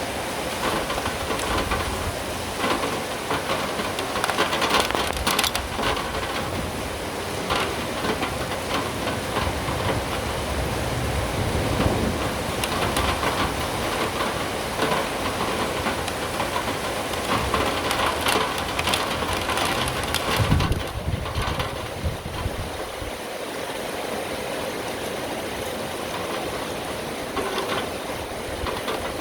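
Steady rain falling, with many close drops ticking near the phone's microphone. Low rumbles swell and fade several times, loudest about twenty seconds in.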